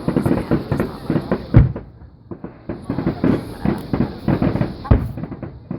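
Aerial fireworks display: shells bursting in rapid, dense crackling volleys, with two heavy booms about a second and a half in and again near the end.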